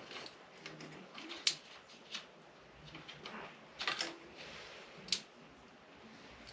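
Small metal hand tools and parts clinking and tapping as the chassis screws of an RC car are worked on. There are several sharp separate clicks, the loudest about a second and a half in and again about five seconds in, with quieter handling rustle between.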